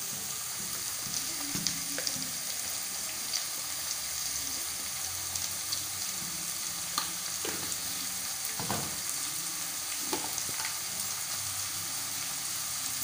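Sliced bitter gourd, onion and tomato sizzling steadily as they sauté in oil in a pan, with a few soft knocks of a metal spatula against the pan about seven to ten seconds in.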